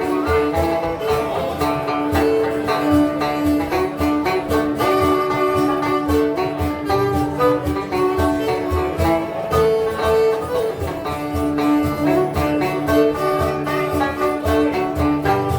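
Folk band's instrumental passage: banjo and twelve-string guitar strummed together in a steady rhythm, with no singing.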